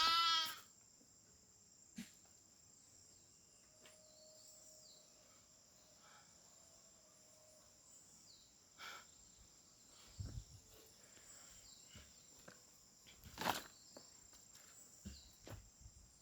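A single short, wavering bleat from a sheep or goat of the flock right at the start, over a steady high insect buzz that carries on throughout. A few faint knocks and rustles follow, the strongest a little past the middle.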